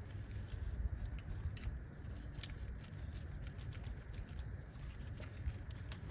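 Scattered light clicks and ticks of hands and tools working the coil-pack bolts in the engine bay, several a second at uneven spacing, over a steady low rumble.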